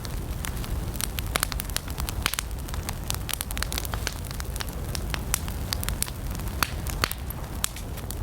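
Wood campfire burning, with dense, irregular crackles and pops over a steady low rumble of the flames.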